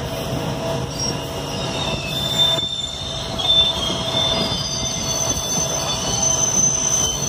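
A goods train of covered wagons running close alongside on the next track: steady rail rumble with high-pitched wheel squeal that grows stronger in the second half.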